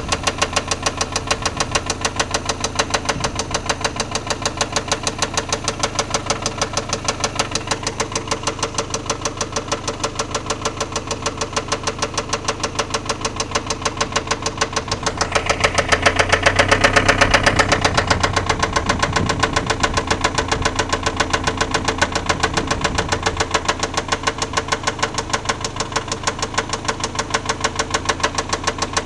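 1991 Toyota MR2's 2.0-litre four-cylinder engine idling with a regular tick or knock, about four a second, whose cause the owner doesn't know. The engine is briefly revved a little past halfway, then settles back to idle.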